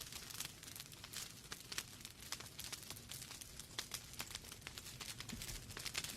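Wood fire burning in a fireplace: logs crackling and popping with sharp irregular snaps over a low, steady rumble of the flames.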